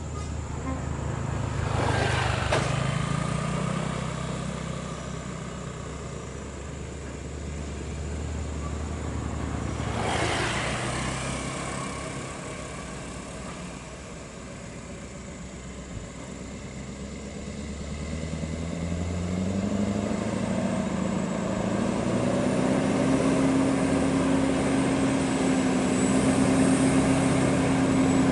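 Scania R580 V8 diesel truck engine running under way. Two brief whooshes of passing traffic come at about 2 and 10 seconds. Near the end the engine's pitch rises over a few seconds and then holds, louder, as the truck accelerates.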